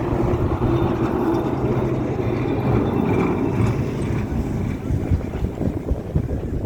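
Blackpool balloon tram passing slowly, a steady low motor hum that weakens after about three seconds, with wind buffeting the microphone.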